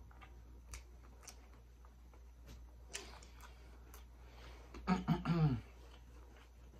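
Chewing a bite of crispy Flamin' Hot Cheetos-coated fried seafood, with faint crunches and mouth clicks. About five seconds in comes a short hummed "mmm", falling in pitch.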